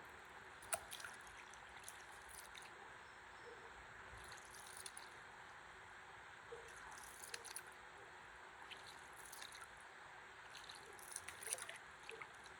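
Faint river water lapping and dripping around a paddleboard: a soft steady hiss with scattered small drips and splashes, a few clustered together.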